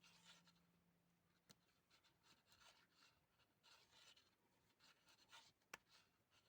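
Faint, soft rustling of yarn and light ticking of circular knitting needles as stitches are knit. There is a sharper needle click about a second and a half in and another near the end.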